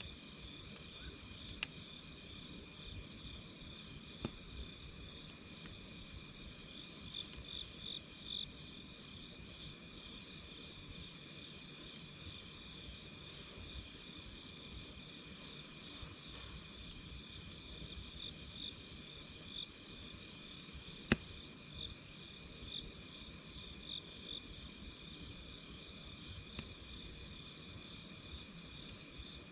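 Crickets chirring steadily, with a few sharp crackles and pops from a wood campfire; the loudest pop comes about two-thirds of the way through.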